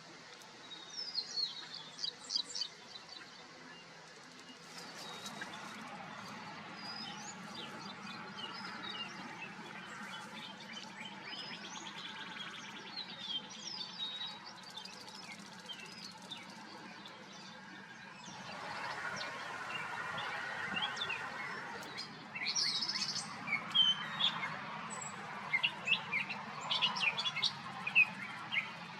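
Outdoor birdsong: many small birds chirping and tweeting in quick short calls, over a low steady hum and a rushing background haze that grows louder partway through.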